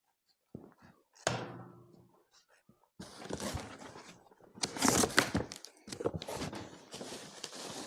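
Cardboard box and packaging being handled during unboxing: a couple of thunks, one ringing briefly, then rustling and scraping of packing material as the contents are pulled out, loudest about five seconds in.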